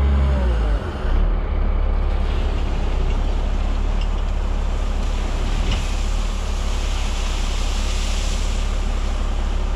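Truck engine idling with a steady low rumble, and a hiss that swells through the middle and eases near the end.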